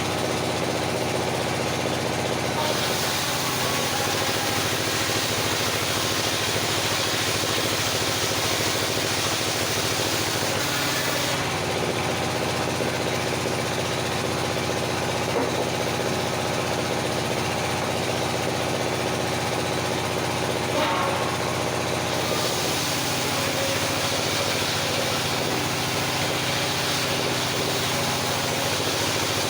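Circular sawmill running with a steady machine drone. The blade cuts through wood twice, adding a loud hiss: from about three seconds in to about eleven, and again from about twenty-two seconds on.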